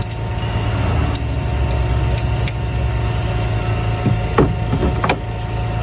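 A steady low machine hum throughout, with a few sharp metallic clicks and taps from hand tools and the hub bolt being set by hand, two louder ones near the end.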